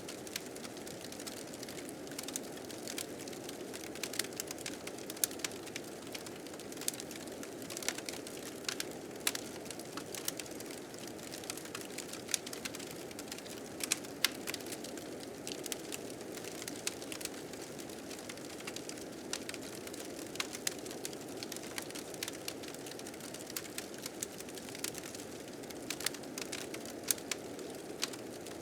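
Wood fire crackling with frequent irregular sharp pops and snaps, over a steady low rushing of blizzard wind.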